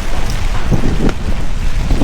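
Heavy rain falling in gusty typhoon wind, the gusts buffeting the microphone in uneven low rumbles.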